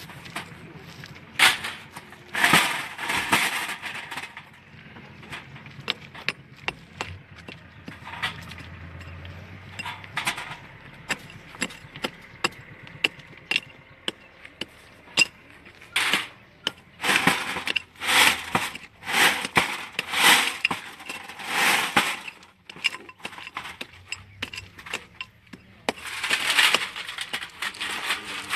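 Road aggregate being handled: stones and gravel clink and knock irregularly, with several rattling bursts lasting a second or two each.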